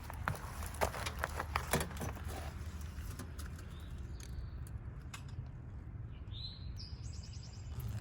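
Birds chirping, with one short call about halfway through and another near the end. A few sharp clicks come in the first two seconds, over a steady low rumble.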